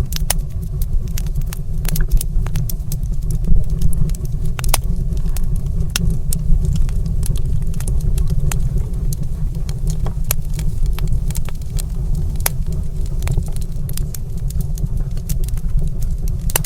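Wood fire crackling in a stone fireplace: many irregular sharp pops and snaps over a steady low rumble.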